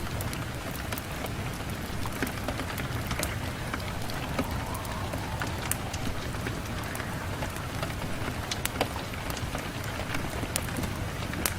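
Steady rain beating on a window, an even hiss broken by many sharp ticks of single drops striking the glass.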